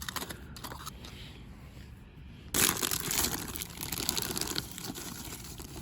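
Crunching of Dorito tortilla chips being bitten and chewed close to the microphone. It is faint at first, then louder and denser for about two seconds from halfway through.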